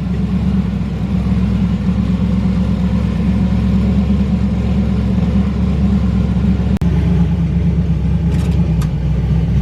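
Twin-turbo Camaro's engine idling steadily, a loud, even rumble with no revving.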